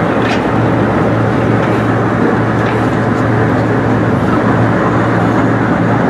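Railway passenger coaches rolling past close by, a steady loud rumble of steel wheels on the rails with a low hum and a few faint clicks.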